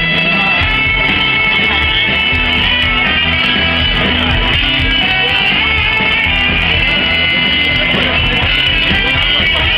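Live pop-rock band playing, with guitar prominent over bass and drums, in a loud concert mix.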